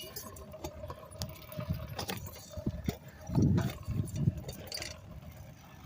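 Rattling and clicking from a moving bicycle, with a louder low rumble about three and a half seconds in.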